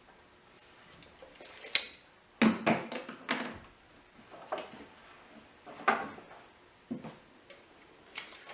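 Irregular knocks and clatter of thin wooden strips being handled and set down on a workbench, a dozen or so hits of varying loudness.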